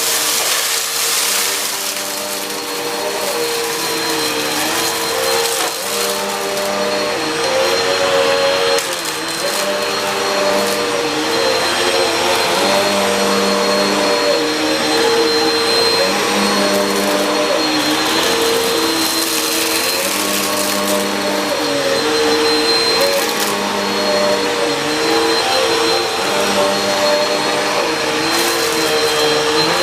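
Bagless upright vacuum cleaner running while it cleans carpet. Its motor whine dips and recovers in pitch about every two seconds as it is pushed back and forth.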